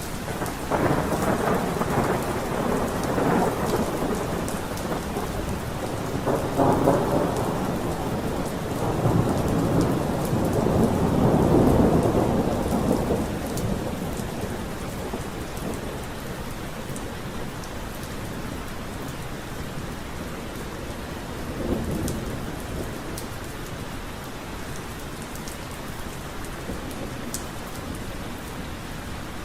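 Steady rain falling, with scattered drops ticking over it. Thunder rumbles through roughly the first half, swelling loudest about twelve seconds in, then dies away, and a fainter rumble comes a little after twenty seconds.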